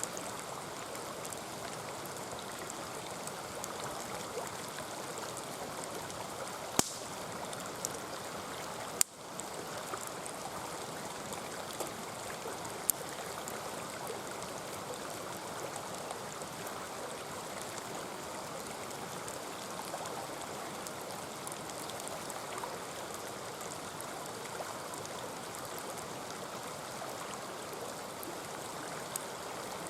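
Mountain stream flowing steadily over rocks, with a few sharp pops and crackles from a wood campfire.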